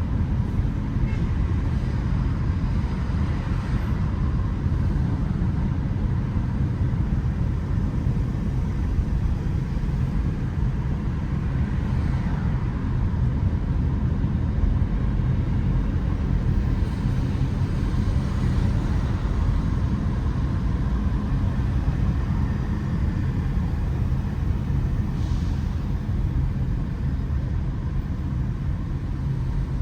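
Steady low rumble of road vehicles and traffic on a city street, with a few faint swells of passing noise.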